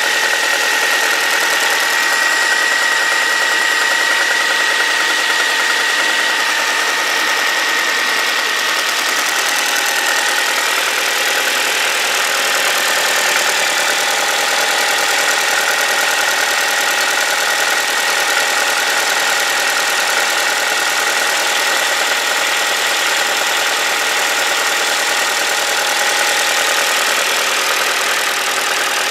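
Ford Focus 3's 1.6 Duratec Sigma four-cylinder petrol engine idling steadily soon after a cold start at +1 °C, recorded with boosted gain. Its fuel injectors chatter, and there is a light diesel-like ticking that the owner is unsure is normal for this engine.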